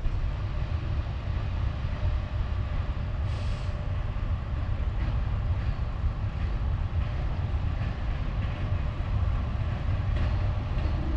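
Steady low rumble of rail traffic at a railway station, with a short hiss about three seconds in.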